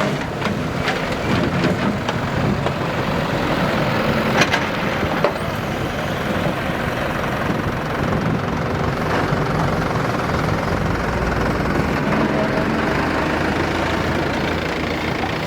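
Diesel engine of heavy earthmoving machinery running steadily under work, with a few sharp clanks near the start and one about four and a half seconds in.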